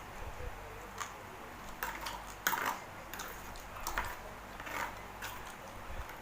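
Eating sounds: a string of irregular short clicks and smacks from chewing spicy seafood papaya salad.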